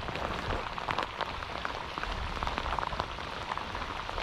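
Steady rain falling, with many separate small drops ticking.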